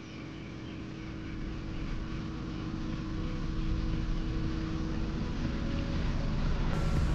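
A vehicle's engine running with steady rushing noise that grows gradually louder.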